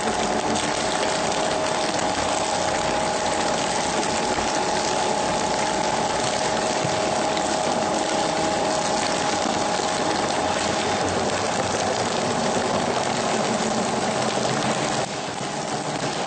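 Heavy scrap-processing machinery running continuously: a steady whine over a dense rushing noise, with the level dropping slightly about fifteen seconds in.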